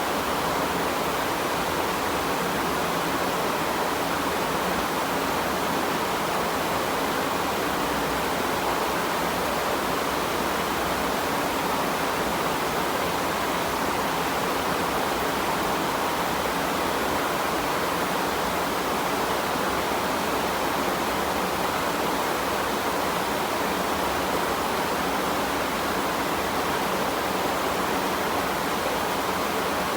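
Steady rain falling, an even unbroken hiss with no separate drops or thunder standing out.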